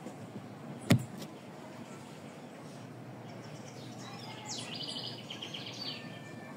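Outdoor ambience with a steady background hiss. A single sharp knock about a second in, and a bird singing a quick run of repeated high notes between about four and six seconds in.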